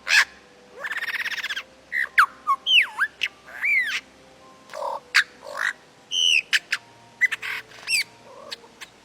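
Lyrebird calling in a varied, mimicking run: a buzzy rattle about a second in, then whistled notes that swoop up and down, sharp clicks and short squawks one after another.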